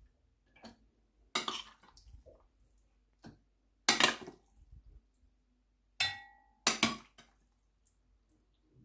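Kitchen clatter as raw chicken pieces are put into a food chopper's bowl: a handful of separate knocks and clinks of dishes and utensils, one about six seconds in ringing briefly.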